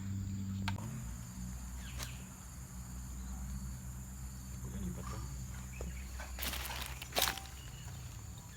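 Bamboo being worked for a kite frame: a few sharp cracks and knocks, the loudest about seven seconds in, over a steady high insect drone.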